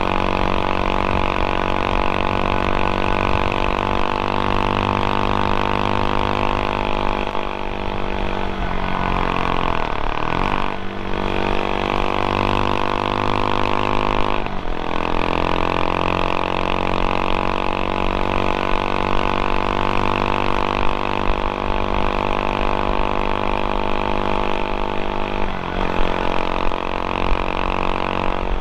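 126cc single-cylinder four-stroke engine of a CFMOTO Papio SS mini motorcycle running while ridden, a steady drone. Its pitch dips and recovers about a third of the way in, drops again about halfway, and dips once more near the end.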